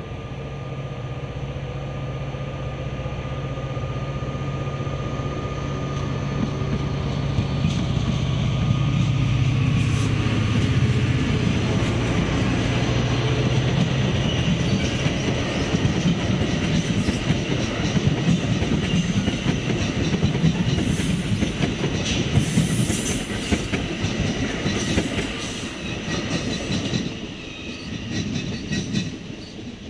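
NJ Transit diesel-hauled commuter train passing: a steady low locomotive engine tone grows louder as it approaches. As the locomotive and double-deck coaches go by, wheels clatter over the rail joints with a light high squeal, and the sound falls away near the end.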